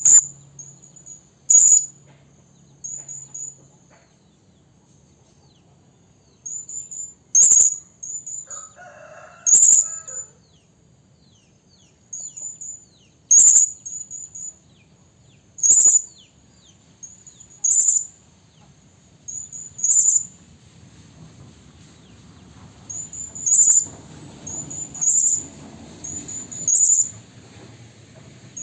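Serindit (hanging parrot) calling: shrill, very high-pitched short notes, a loud sharp one about every two seconds with softer twittering notes between.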